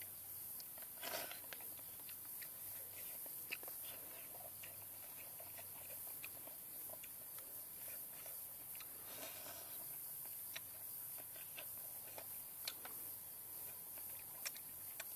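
A person eating up close: chewing and biting, with soft mouth noises and scattered small clicks, over a steady faint high hiss.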